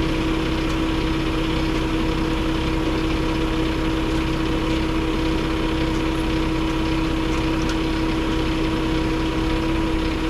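A truck engine running steadily: a constant, unchanging drone with a steady hum over it.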